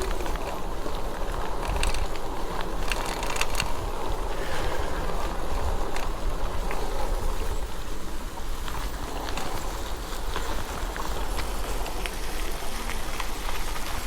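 E-bike riding along a trail: wind rumbling on the microphone over a steady rush of tyres on the trail, with scattered small clicks and rattles from the bike.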